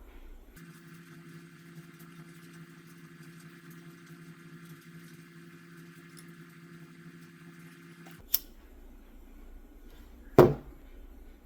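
Steady low hum broken by two sharp knocks, about eight and ten seconds in, the second louder and ringing briefly.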